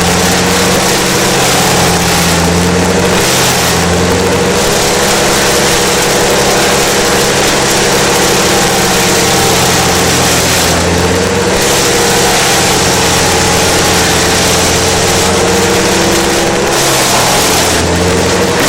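Diesel-powered Vermeer BC1000 wood chipper running loud, a steady engine drone under a dense hissing roar of the machine that briefly drops away a few times.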